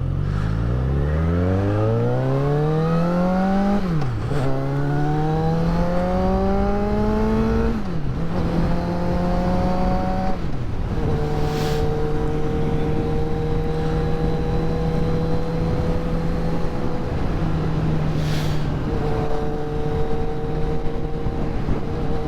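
Motorcycle engine accelerating hard through the gears, its pitch climbing and then dropping at each of three upshifts, then running at a steady cruise with a brief easing of the throttle.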